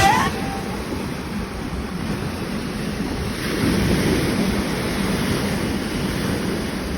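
Sea water rushing and splashing alongside a ship at sea, a steady rush with wind buffeting the microphone, swelling a little around the middle.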